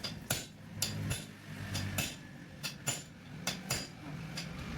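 Irregular light metallic clinks and taps, about ten of them, from tools and steel parts being handled during a tractor gearbox rebuild, with a low hum underneath.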